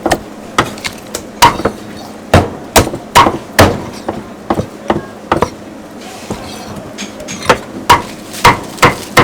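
A cleaver chopping cooked bone-in chicken into pieces on a chopping block. There are sharp, irregular blows, about seventeen in all, with a pause of about two seconds in the middle.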